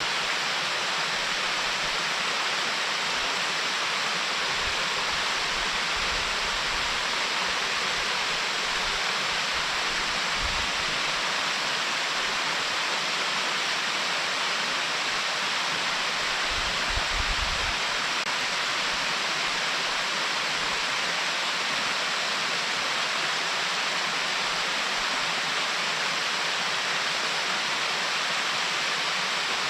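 Mountain stream rushing steadily over a check dam just above a waterfall, a constant dense hiss of falling and churning water.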